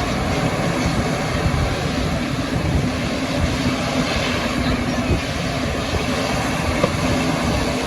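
Jet aircraft engines running with a steady, broad rumble and a faint hum.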